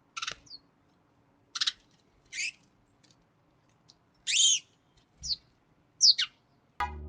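Chickadees calling: several short, high chirps and call notes at irregular intervals, the longest and loudest a little over four seconds in. A low steady hum cuts in suddenly right at the end.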